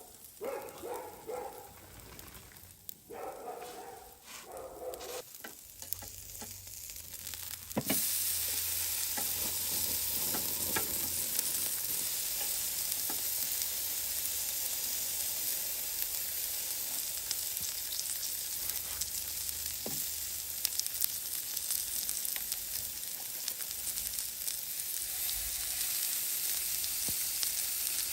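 Steak sizzling on a hot wood-fired barbecue. The sizzle starts suddenly about eight seconds in, as the meat meets the grill, and then holds steady and loud with small crackles.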